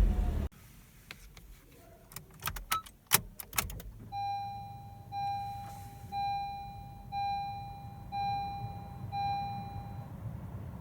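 Honda CR-Z's four-cylinder engine switched off, its running sound cutting off suddenly about half a second in. A few clicks and knocks follow, then the car's warning chime sounds six times, about once a second.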